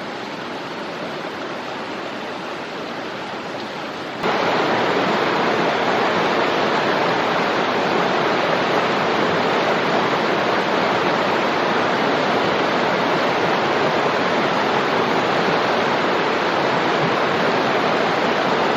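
Rushing water of a small mountain stream, a steady wash that gets suddenly louder about four seconds in and then holds steady.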